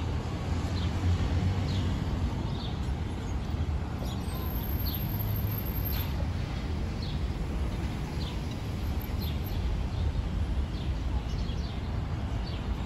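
Birds chirping in short, repeated calls over a steady low rumble of street background noise.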